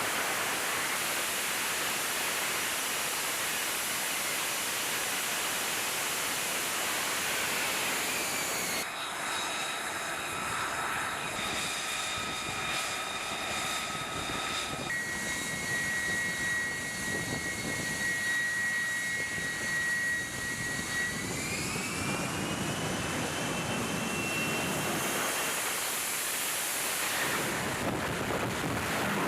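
F135 turbofan jet engine running: a steady loud rushing roar with a high turbine whine. The whine holds on a steady pitch, then rises about two-thirds of the way through and fades. The sound changes abruptly twice.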